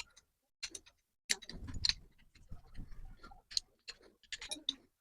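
Irregular sharp metal clicks and light knocks from a bench vise's parts being handled and fitted, with a low rubbing and handling rumble through the middle.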